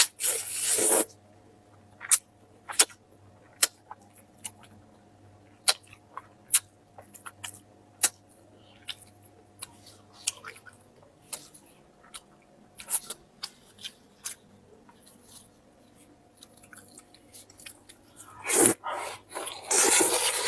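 Close-up chewing and biting on chicken head, with many sharp crunches and clicks of teeth on small bones. Louder, longer noisy stretches come at the start and again near the end.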